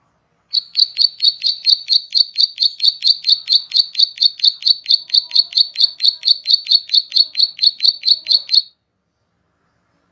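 A songbird repeating one sharp, high chirp about five times a second for about eight seconds, each note dropping quickly in pitch.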